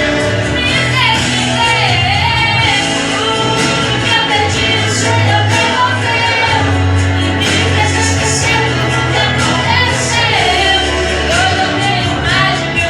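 Music with a woman singing a melody over steady accompaniment, in the style of an evangelical worship song.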